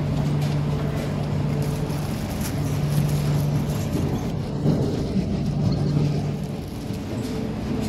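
A running engine's steady hum with a low tone that fades and returns every few seconds.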